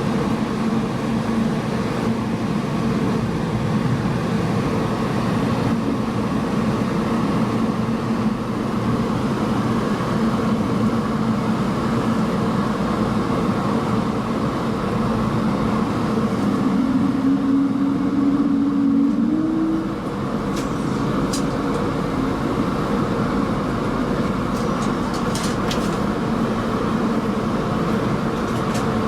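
Airbus A220-300 heard from inside the cabin: its Pratt & Whitney PW1500G geared turbofan engines and the airflow make a loud, steady rush with a low hum. About two-thirds of the way through, a tone briefly rises in pitch.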